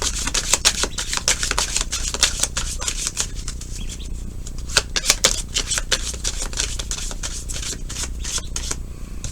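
Tarot cards being shuffled and handled: a quick, irregular run of crisp papery flicks and snaps, busiest in the first few seconds and thinning out after that.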